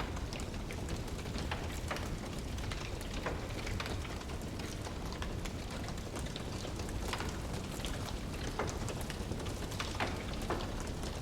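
Wood fire burning in a fireplace: a steady low rumble of flames with scattered sharp crackles and pops from the burning logs, a few louder ones near the end.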